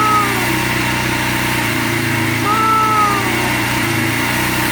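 Small gas engine of a pressure washer running steadily at an even pitch. Two brief higher tones that rise and fall sit over it, one at the start and one about two and a half seconds in.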